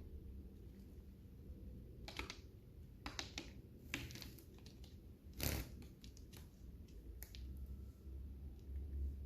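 Lovebirds cracking seeds with their beaks: a scatter of sharp, irregular clicks and crunches, the loudest about halfway through.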